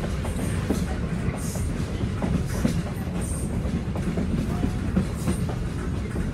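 Passenger train car running along the track, heard from on board: a steady rumble, with the wheels clicking and knocking over the rails.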